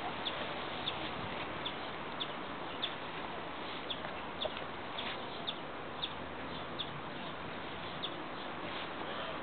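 A bird chirping repeatedly in short, high chirps, roughly every half second, over a steady background hiss.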